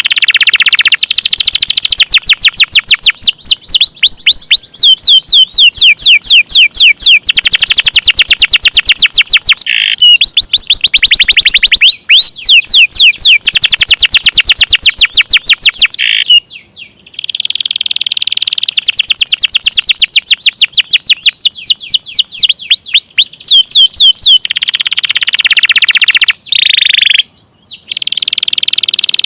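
Domestic canaries singing long, loud rolls: rapid trills of quickly repeated high notes, run after run, breaking off briefly twice, once past the middle and once near the end.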